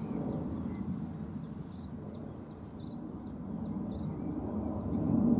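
A small warbler giving a repeated short alarm call, about two calls a second, over a low steady rumble. The bird is alarmed, likely flushed from a nest nearby.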